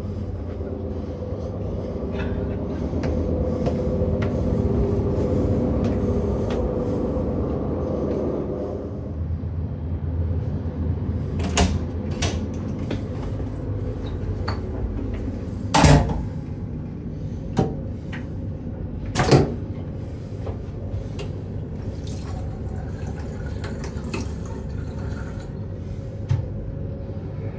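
Omnéo Premium NOMAD regional train running, heard from inside the passenger car: a steady rumble that eases after about nine seconds, with a handful of sharp knocks and clunks in the second half.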